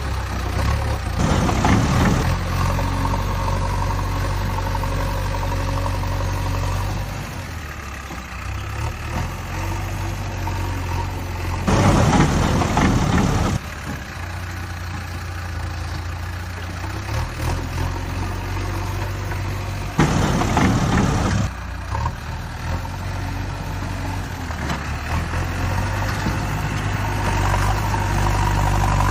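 Backhoe loader's diesel engine running steadily, with three louder rushing surges of about a second and a half each, near the start, about twelve seconds in and about twenty seconds in.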